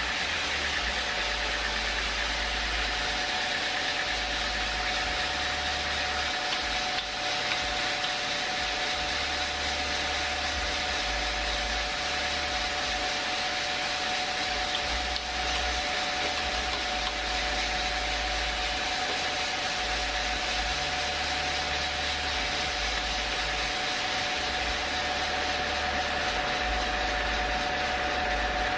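Sawmill machinery running steadily: a constant mechanical drone with a steady whine that holds the same pitch throughout.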